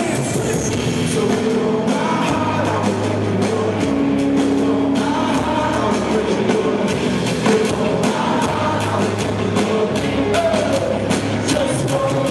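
Live worship band playing an upbeat rock-style song, with singing over drums and bass.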